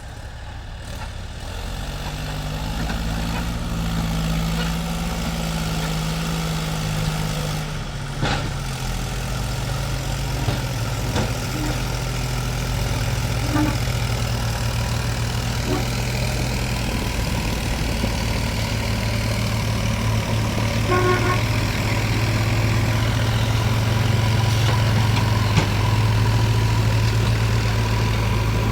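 Heavy diesel engine running steadily. Its pitch drops slightly about eight seconds in, with a sharp click at the same moment.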